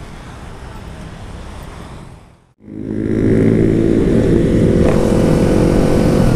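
Low rumble of motorcycles and wind at a roadside stop, cut off sharply about two and a half seconds in. Then the louder, steady note of a Yamaha R25 parallel-twin engine holding constant revs while riding.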